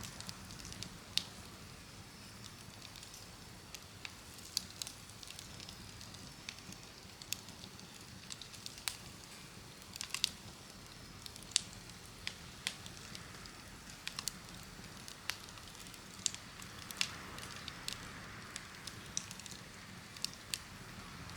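Wood campfire crackling, with irregular sharp pops and snaps spread through, over a faint steady low hum.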